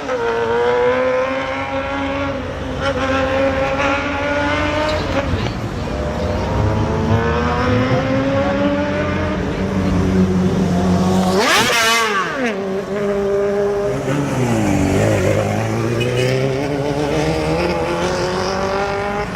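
Sport motorcycle engine accelerating hard, its pitch climbing steadily in long runs through the gears with brief drops at each shift. About twelve seconds in, a sharp, high-pitched rev rises and falls quickly, then the pitch dips and climbs again.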